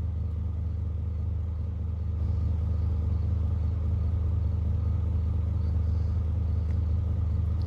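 Pickup truck engine idling in park: a steady low rumble that stays even throughout.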